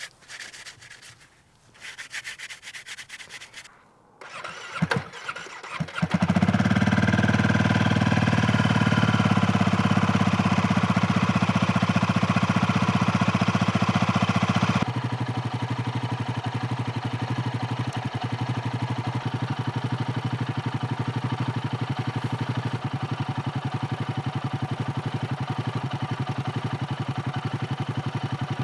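Royal Enfield Himalayan 450's single-cylinder engine cold-started in freezing weather: a brief crank, then it catches about six seconds in and runs loudly at a fast idle. About nine seconds later it drops to a quieter steady idle. Rustling and handling noises come before the start.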